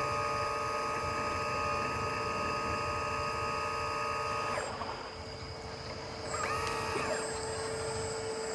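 Electric hydraulic pump of a Lesu PC360 RC hydraulic excavator whining steadily at a high pitch under load. It cuts out a little under five seconds in and starts again about a second and a half later, its pitch rising as it spins up, then holding steady.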